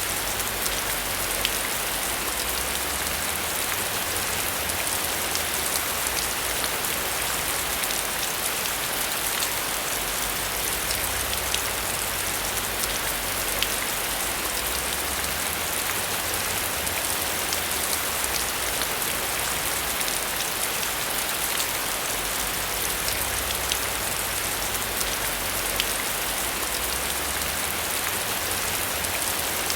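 Steady heavy rain falling, a dense even hiss with scattered sharp ticks of single drops.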